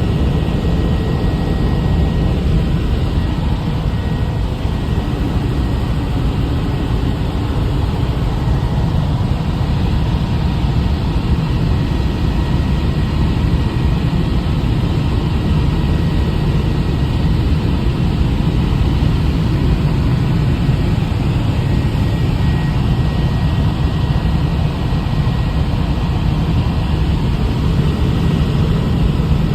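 Helicopter in flight: a loud, steady drone of engine and rotor noise, strongest in the low end.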